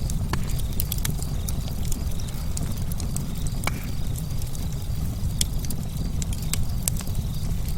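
Campfire of burning wood: a steady low rumble of flames with frequent, irregular sharp crackles and pops.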